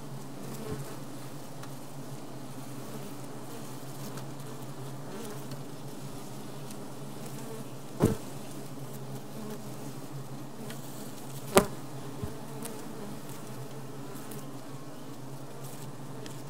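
Honeybee colony buzzing steadily inside a Japanese-style beehive, a dense low hum. Two sharp knocks sound about eight and eleven and a half seconds in.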